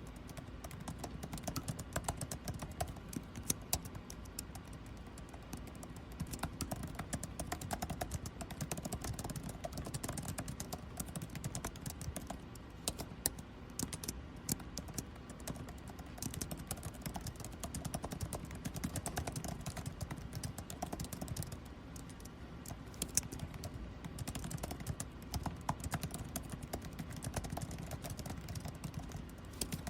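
Continuous typing on a computer keyboard, quick irregular key clicks, over a steady hum of air conditioning.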